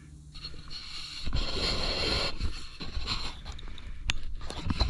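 Metal parts scraping and knocking as a tractor's roller lift assembly is pulled apart by hand, with a few sharp clicks near the end.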